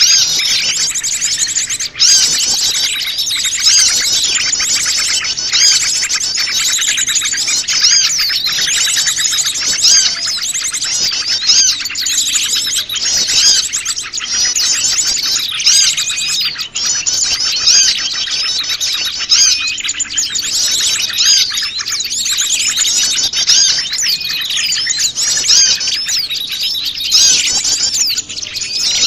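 Dense chorus of many small wild birds chirping, twittering and trilling over one another without a break, a mixed lure recording meant to draw small birds in.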